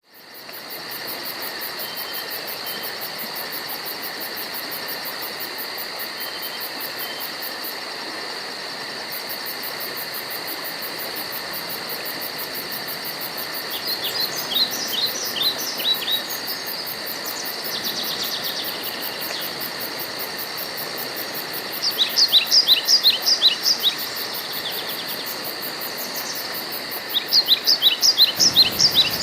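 Steady insect chorus, a high whine with a fast high-pitched pulsing, while a songbird sings three bursts of quick repeated notes: about halfway through, again a few seconds later, and near the end.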